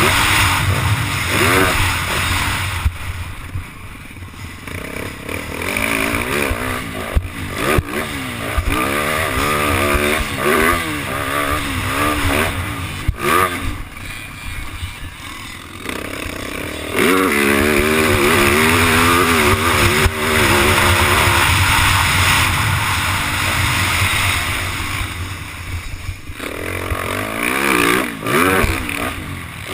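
Yamaha YZ450 four-stroke single-cylinder dirt bike engine being ridden hard, the throttle opened and shut again and again so the revs keep rising and falling, with short lulls a few seconds in and about halfway through. Wind noise runs over the microphone.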